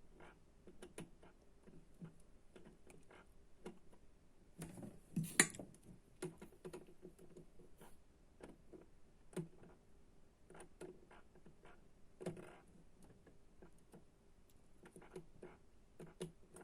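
Scattered light clicks and taps of small hard objects being handled, with a louder clatter about five seconds in and a few sharper single clicks later.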